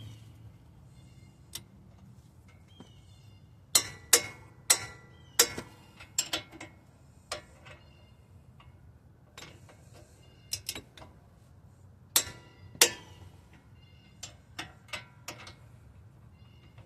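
Sharp metallic clicks and knocks from hand tools working on a wheel hub and knuckle assembly, coming in irregular clusters: several loud ones about four to six seconds in, another pair around twelve seconds, and softer ones after.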